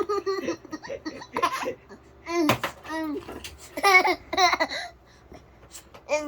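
A baby laughing and babbling in short giggly bursts during play with mouth-made fart noises. There is one short buzzy raspberry-like noise about two and a half seconds in.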